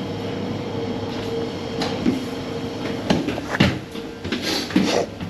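Steady hum of the ship's interior ventilation with a thin steady tone. From about two seconds in come a series of sharp knocks and clunks.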